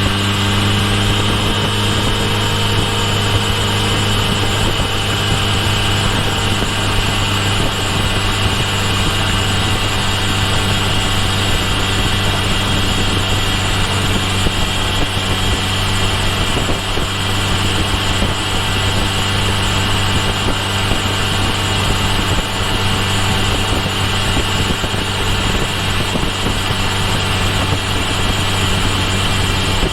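Kawasaki Ninja H2 SX's supercharged 998 cc inline-four engine running at a steady, even pitch, heard from a microphone on the rear of the bike, with a constant high whine above the engine note.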